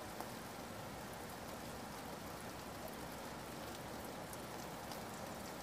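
Heavy rain falling steadily: an even rush of rainfall with scattered faint drop ticks.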